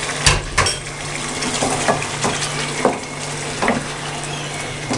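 Chicken masala sizzling in a non-stick wok on a gas burner while a wooden spoon stirs it, knocking and scraping against the pan about eight times, loudest twice in the first second.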